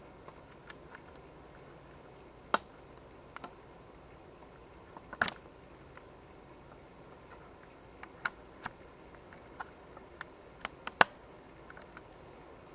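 Scattered light clicks and taps at irregular intervals over a faint steady hiss, the sharpest about two and a half seconds in, a small cluster near five seconds, and the loudest near eleven seconds.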